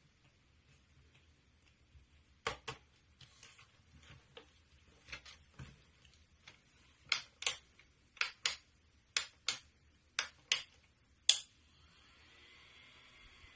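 A series of sharp clicks from the handheld mini table fan being handled, many in pairs about a third of a second apart. Near the end its small battery-powered motor starts, giving a faint steady whir with a thin hum.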